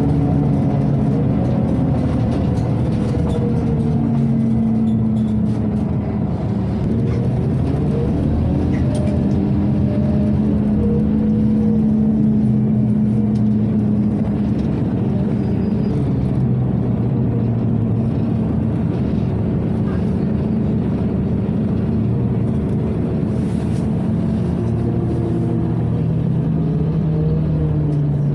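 Scania OmniCity city bus's diesel engine heard from on board, rising and falling in pitch several times as the bus accelerates and slows in traffic, over a steady low rumble of the running bus.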